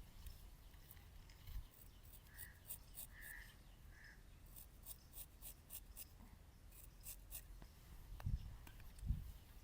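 Straight razor scraping across stubble in a quick run of short strokes, followed near the end by two low thumps.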